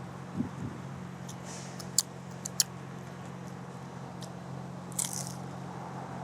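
Someone eating, with a few sharp clicks and short rustles from handling the food and its packaging, over a steady low hum.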